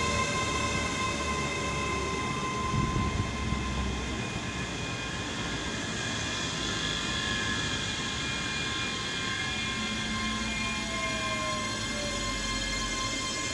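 Class 385 electric multiple unit standing at the platform, its onboard electrical equipment humming with several steady high-pitched tones. A few low thumps come in the first few seconds.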